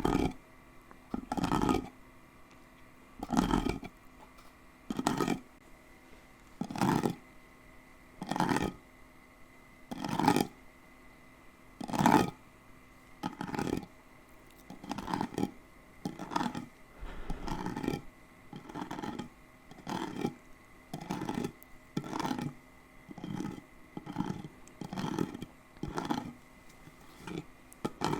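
Scratching close to the microphone in repeated separate strokes. They come about one every one and a half to two seconds at first and quicken to about one a second in the second half.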